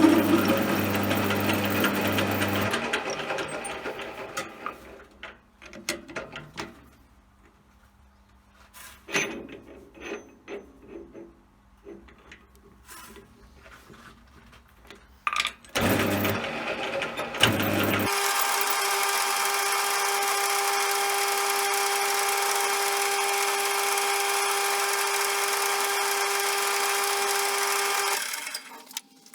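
Small bench metal lathe running, then winding down over a couple of seconds, followed by scattered clicks and knocks of metal being handled. A small motor starts briefly, then runs as a steady high whine for about ten seconds before stopping near the end.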